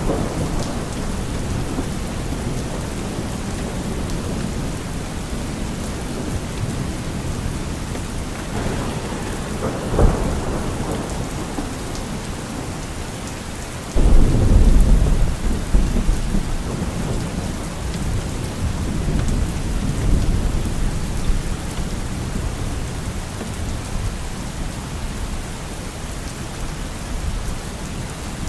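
Steady heavy rain with thunder: a sharp crack about ten seconds in, then a loud rolling rumble that breaks suddenly about halfway through and dies away over several seconds.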